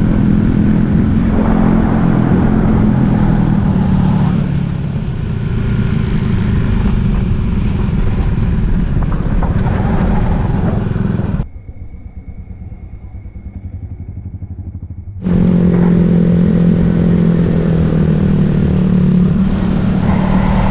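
Suzuki Raider J 115 Fi's single-cylinder four-stroke engine running under way with wind and road noise, recorded on the bike. About halfway through it cuts abruptly to a quieter low rumble for about four seconds, then returns at full level.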